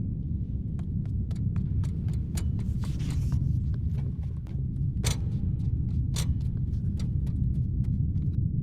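Laptop keyboard typing, with irregular clacks of keys, over a steady low hum. A few keystrokes about five and six seconds in are louder than the rest.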